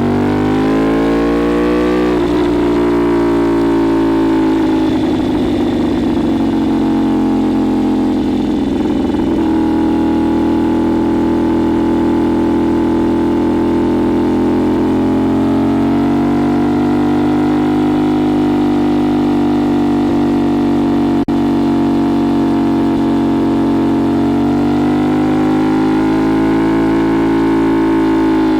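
CFMoto 450SS parallel-twin engine through a Leo Vince LV-10 slip-on exhaust under way. It revs up over the first couple of seconds, drops sharply as it shifts up a gear, then runs at fairly steady revs with slow swells in engine speed later on. There is one brief click about three-quarters of the way through.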